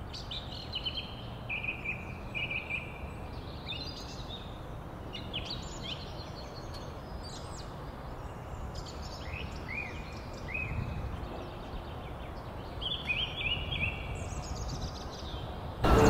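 Small birds chirping in short runs of quick notes, some sliding down in pitch, over a steady low background rumble.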